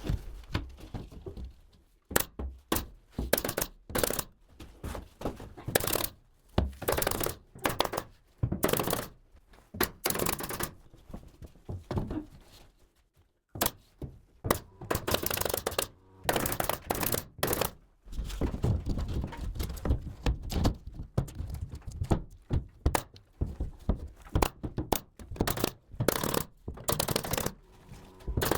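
Carpentry work on a wooden drop-ceiling frame: runs of sharp knocks and thuds in quick succession, broken by short pauses.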